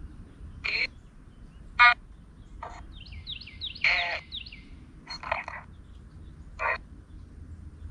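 Birds calling: about six short, harsh calls spaced roughly a second apart, with a quick run of falling chirps in the middle.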